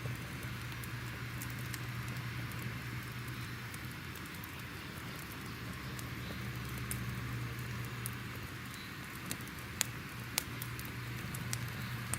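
Wood fire crackling: a steady hiss and low rumble with scattered sharp pops, two louder ones near the end.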